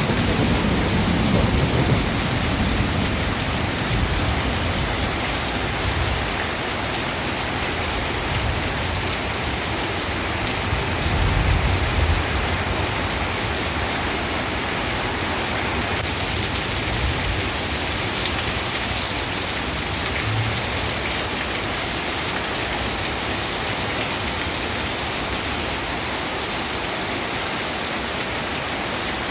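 Steady rain falling, with low rumbles of thunder in the first few seconds and again about eleven seconds in.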